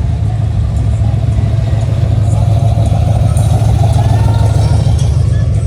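A classic car's engine and exhaust running as it drives slowly past, a deep, steady low note that swells a little about three to four seconds in.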